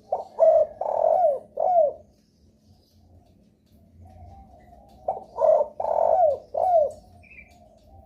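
Spotted dove (derkuku) cooing: two phrases of about four falling coo notes each, the first at the start and the second about five seconds in, with fainter cooing in between.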